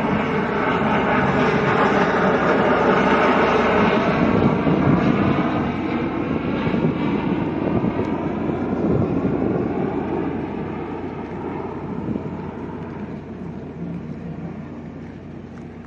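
P-3 patrol aircraft's four turboprop engines droning as it flies past, loudest about four seconds in and then fading away.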